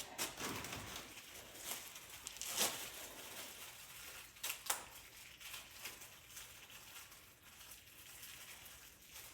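Plastic bag crinkling and rustling as it is opened and handled, with a few sharp crackles.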